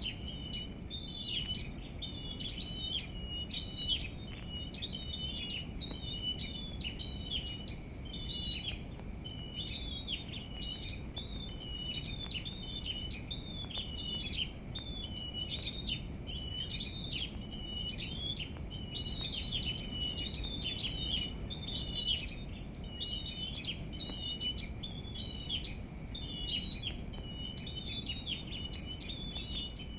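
Small songbirds twittering almost without pause, a run of quick high chirps and trills, over a steady low background rumble.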